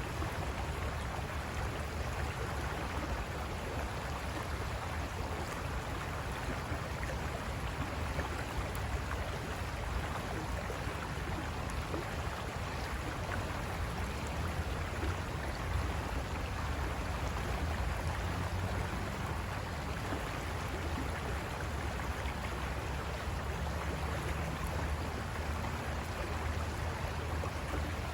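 River water rushing and splashing over rocks, a steady, unbroken flow.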